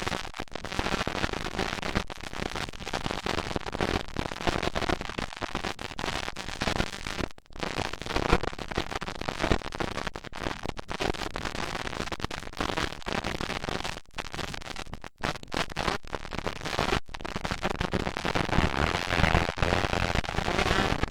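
Motocross dirt bike engines running on the track: a rough, crackling racket with several brief dropouts.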